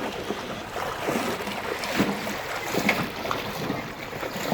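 Floodwater sloshing and splashing, with a few short splashes about halfway through and near the end.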